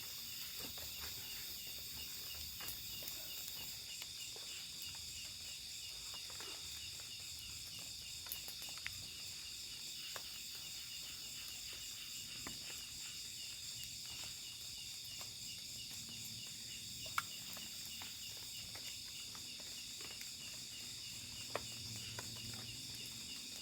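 Night-time chorus of crickets and other insects in the forest: a steady, high, many-layered trilling with a fast pulsing rhythm. A few sharp ticks sound over it, the loudest near the middle and again near the end.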